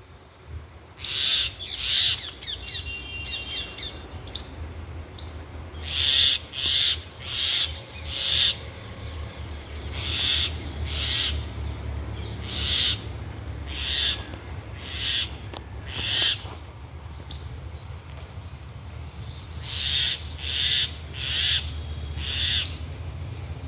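Birds giving short, harsh calls over and over in quick runs of two to four, the alarm calls of birds scolding a snake, over a steady low rumble.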